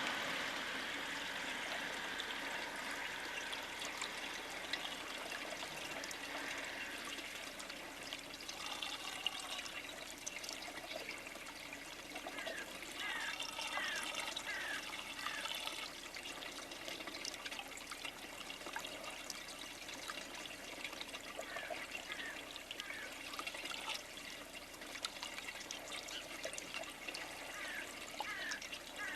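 Steady trickling, water-like outdoor noise. Small birds give short falling chirps over it: a quick run of four a little before halfway, and a few more later on.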